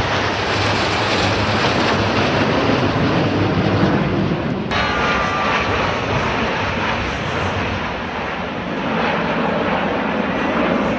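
Jet noise from the Snowbirds' nine CT-114 Tutor jets flying over in formation: a loud, steady rush that eases slightly a little past the middle, with a single sharp click near the middle.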